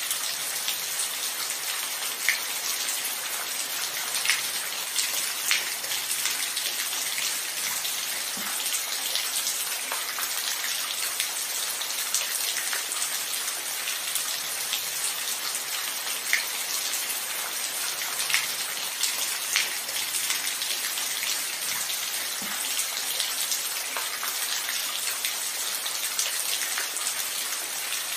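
Steady rain falling, an even hiss with individual drops ticking sharply above it every few seconds.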